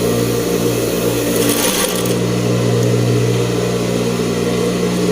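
Electric sewing machine running steadily, stitching a blouse collar in place.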